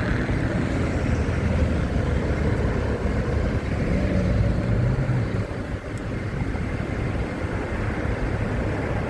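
Motorcycle engine running on the move, with rushing wind noise on the microphone. The engine note eases off briefly about five to six seconds in.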